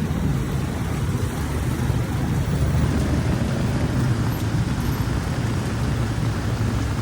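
Steady rumble of street traffic mixed with the hiss of heavy rain, with no sudden events.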